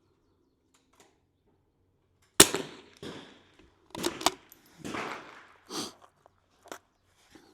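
.22 LR single-shot rimfire rifle firing one shot about two and a half seconds in, sharp and short with a brief ring. It is followed by several smaller metallic clicks and softer rustles, typical of the bolt being opened, the case extracted and a fresh round loaded.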